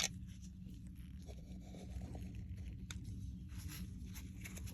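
Small plastic washer agitator parts being handled: a few light clicks and soft rustling over a steady low hum.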